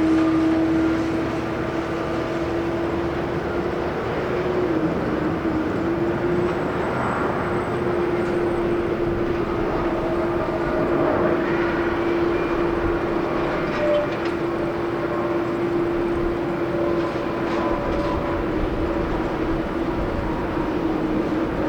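An Airbus A320neo's Pratt & Whitney PW1100G geared turbofans running on a landing, with a steady whine over broad jet noise and wind rumble.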